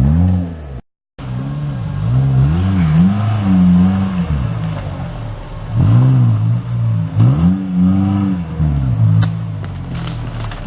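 Off-road 4x4's engine revving up and down again and again under throttle, with the sound cutting out briefly about a second in.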